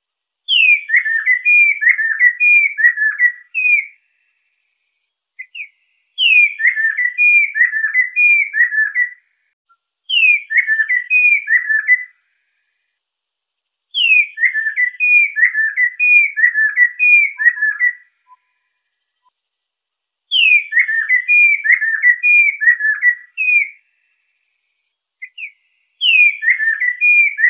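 A laughingthrush, the 'poksai lesser' of Indonesian bird keepers, singing the same whistled phrase over and over. Each phrase opens with a high falling note and runs into a quick string of looping, bubbling whistles lasting about three seconds. It comes back about every six seconds, sometimes with a single short note in the pause.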